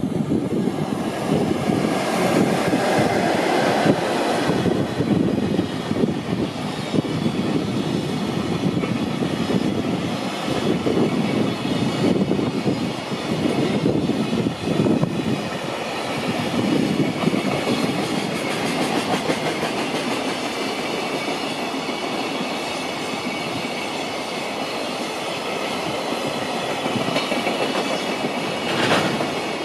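EF66 100-series electric locomotive passing close with a container freight train, loudest a few seconds in, followed by a long run of container wagons rolling by, their wheels rumbling and clattering over the rails.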